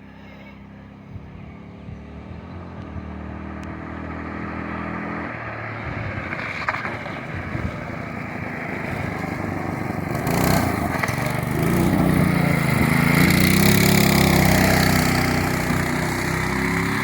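Small engine of a homemade trike running, growing steadily louder, with its pitch rising and falling over the last several seconds as it is revved.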